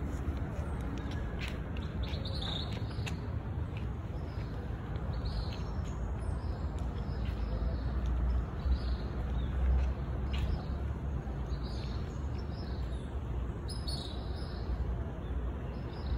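Birds chirping, short calls every second or two, over a steady background noise with a low rumble.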